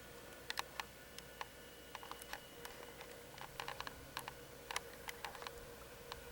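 Irregular light clicks and taps, about two dozen, over a faint steady hum.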